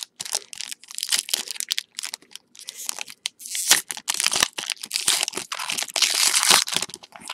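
Foil trading-card pack wrapper being torn open and crinkled in the hands: scattered sharp crackles that thicken into dense crinkling about four seconds in.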